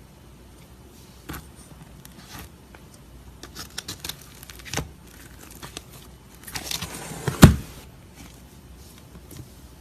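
Slime being squished and stretched by hand: scattered small clicks and crackles, then a denser crackling stretch about six and a half seconds in that ends in a sharp pop.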